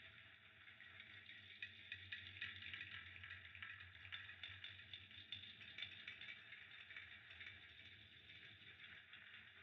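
Fire crackling faintly, a dense stream of small pops and ticks over a soft hiss, a little louder in the middle, with a low steady hum underneath.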